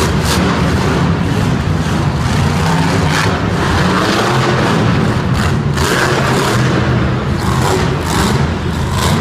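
Monster truck engine running loud and steady, with several sharp cracks or bangs scattered through it.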